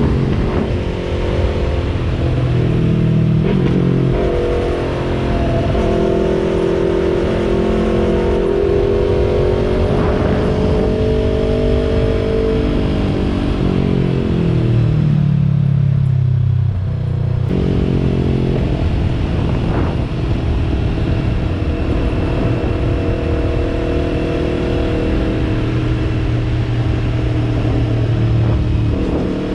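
2020 Yamaha YZF-R3's parallel-twin engine through a Yoshimura exhaust, ridden through the gears. The pitch climbs in the first half, falls as the bike slows around the middle, changes abruptly, then holds fairly steady at cruising revs.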